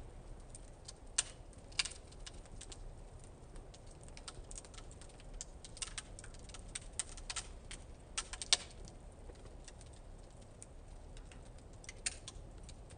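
Wood fire in a fire-pit stand crackling, with irregular sharp pops; the loudest come about a second in and about eight and a half seconds in.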